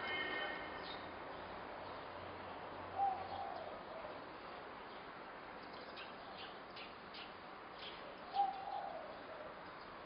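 Two short bird calls, about five seconds apart, over a steady background hiss, with a few faint high chirps between them.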